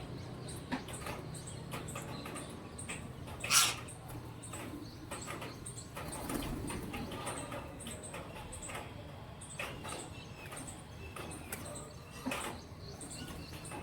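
Pigeons and parakeets: wings flapping, cooing and a scatter of small sharp taps, with one louder sharp sound about three and a half seconds in.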